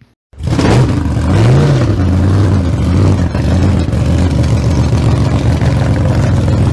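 A loud engine cuts in abruptly and runs steadily, with one quick rev that rises and falls about a second and a half in.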